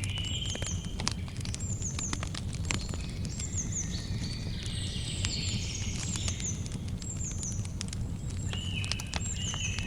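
Campfire crackling with many irregular sharp pops over a low steady rumble, while birds chirp in high, repeated calls in the background.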